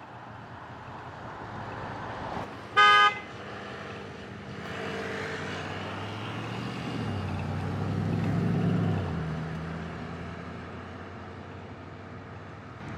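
A car horn gives one short toot about three seconds in, the loudest sound. Then a car's engine grows louder and fades away as the car drives past.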